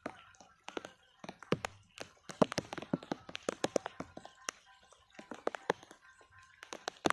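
Rapid, irregular sharp taps and knocks, with faint voices or calls in the background.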